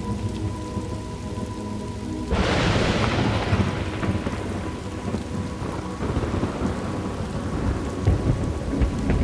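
Thunderstorm ambience: steady rain, with a clap of thunder that starts suddenly about two seconds in and rumbles away over the following seconds.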